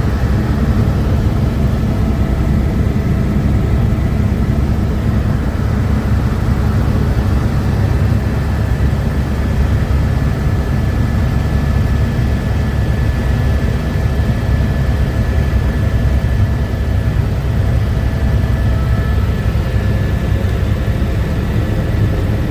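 Helicopter in flight: the rotor and engine give a steady, loud, low drone, with a few faint steady whining tones above it.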